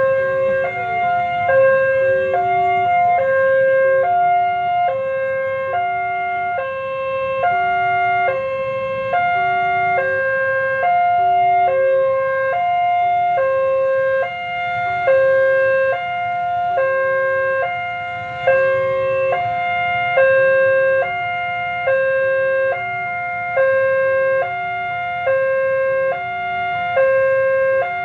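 Electronic warning alarm of a railway level crossing, sounding continuously: a repeating pattern of a few steady electronic tones stepping between pitches, about once every one and a half seconds, signalling that the crossing is closed for a train.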